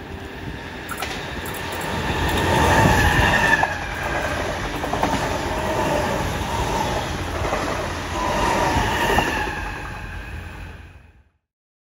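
Double-deck electric passenger train passing close by, its wheels clattering over the rails with a few sharp clicks and some whining tones; the sound builds to its loudest about three seconds in and fades away near the end.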